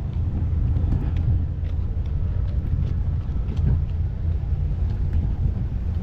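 Car engine running nearby: a low, steady rumble.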